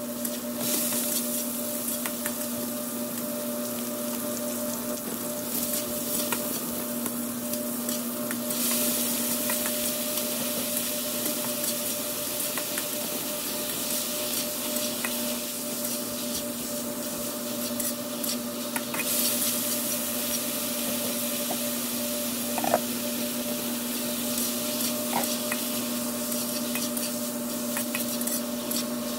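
Onions, garlic and chicken pieces sizzling in hot oil in a steel wok as they are stirred with a spatula; the sizzle swells louder a few times. A steady low hum runs underneath, and there is one sharp tap about two-thirds of the way through.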